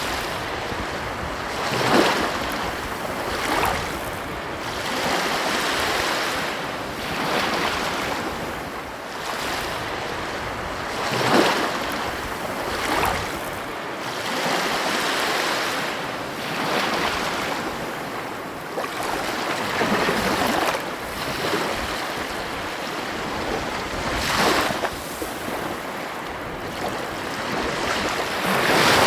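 Ocean surf on a beach: a continuous wash of waves, with louder breaks every few seconds.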